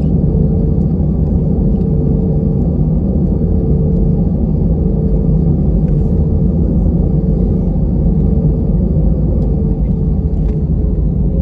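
Airbus A320-family jet airliner: a loud, steady low rumble with a thin steady hum above it, holding unchanged throughout.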